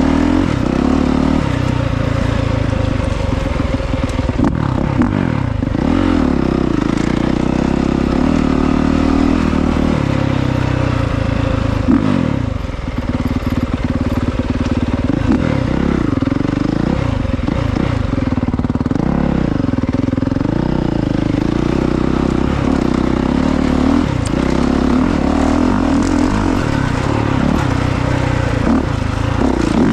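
Honda CRF450R's single-cylinder four-stroke engine under riding load, its pitch rising and falling again and again as the rider revs on and off the throttle and shifts through the gears.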